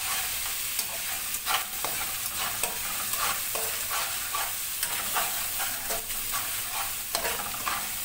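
Chopped garlic sizzling in hot oil in a metal pot, with a spoon clicking and scraping against the pot at irregular moments as it is stirred.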